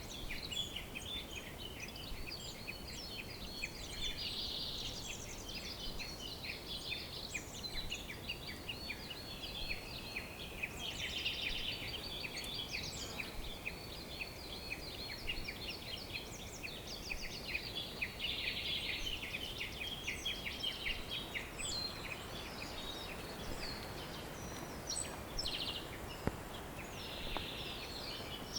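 Chorus of many small birds chirping and trilling without pause, the calls overlapping, over a steady background hiss.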